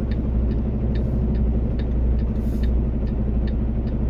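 Semi truck's diesel engine running low and steady while the truck creeps forward at walking pace, with a light tick about twice a second.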